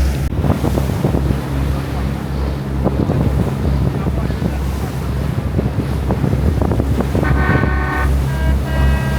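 A ferry's engines drone steadily under wind buffeting the microphone and the rush of the sea against the hull. Near the end, a few held tones sound briefly above the drone.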